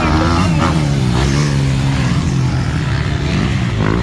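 Motocross motorcycle engines revving, their pitch rising and falling as the bikes race past.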